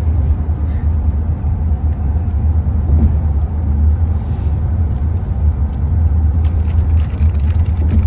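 Steady low road rumble of a minivan driving on the highway, heard from inside the cabin.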